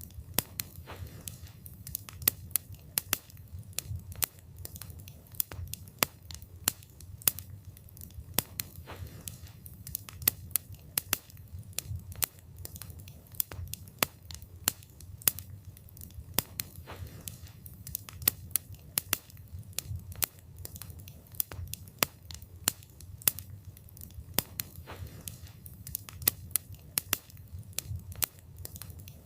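Wood fire burning, with frequent sharp, irregular crackles and pops of burning wood over a low, steady rumble of flames.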